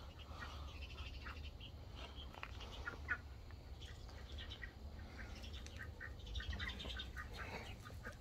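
Faint, scattered bird calls and chirps over a steady low rumble, with one brief knock about three seconds in.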